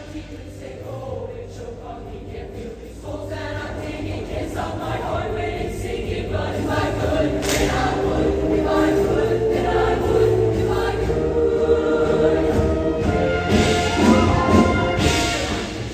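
Show choir singing in full chorus over instrumental accompaniment, the music swelling steadily louder through the passage.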